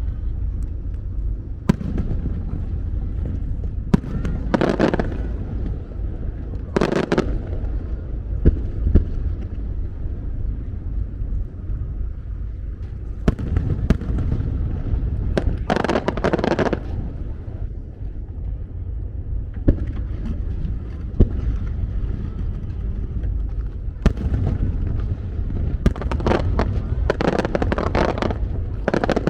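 Aerial fireworks shells bursting overhead: sharp single bangs every few seconds and several crackling bursts lasting about a second, the densest run near the end, over a steady low rumble.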